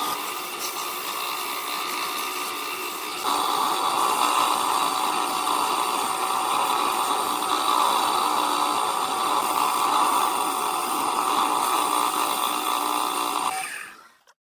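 A power tool running steadily; it gets louder about three seconds in and fades out near the end.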